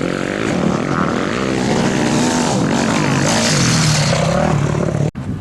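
Racing motorcycle engines revving, their pitch rising and falling as they run. The sound breaks off abruptly about five seconds in, then resumes.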